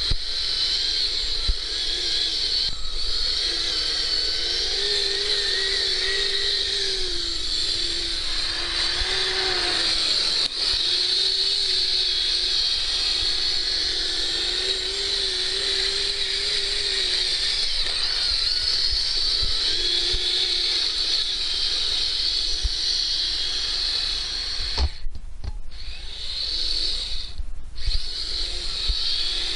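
Electric motor and gear train of a Kyosho Blizzard RC tracked snow vehicle whining steadily, the lower pitch rising and falling with the throttle. The whine drops out briefly twice near the end.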